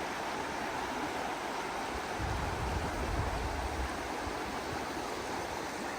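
Rushing river water, a steady, even rush with no let-up, with a brief low rumble in the middle.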